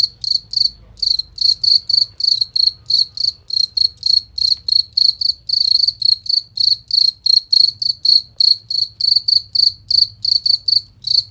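Field cricket (jangkrik) chirping: a steady run of short, clear, high-pitched chirps, about four or five a second, with a couple of brief pauses.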